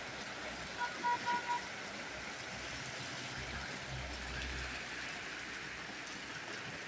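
Steady rain falling, an even hiss. About a second in, four short high-pitched tones sound quickly one after another over it.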